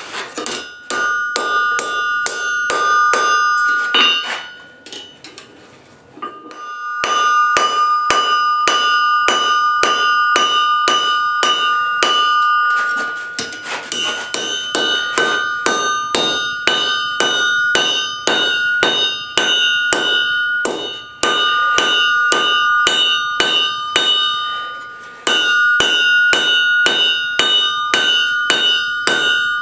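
Blacksmith's hammer striking hot spring steel on an anvil, about three blows a second in long runs, with the anvil ringing on in steady tones between blows. The hammering stops for about two seconds early on, then resumes.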